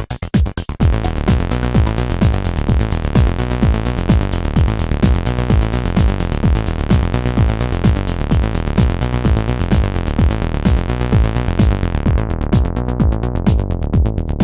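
Acid-style synth bassline from two Behringer TD-3 MO bass synthesizers playing in unison, over a Roland JD-Xi drum machine beat, with no effects. The sequence is briefly chopped about a second in, then runs full. Over the last few seconds its tone grows darker and duller.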